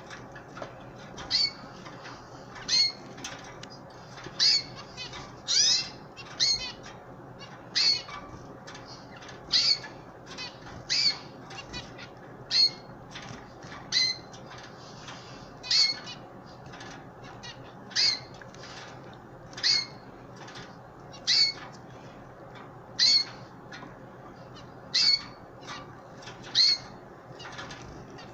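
Canary chirping: short high calls repeated about every one and a half seconds over a steady low hiss.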